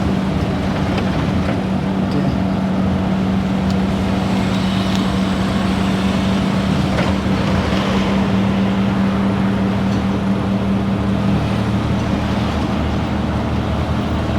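Tuk-tuk engine running steadily while under way, with road and traffic noise around it; the engine note drops lower about eleven seconds in.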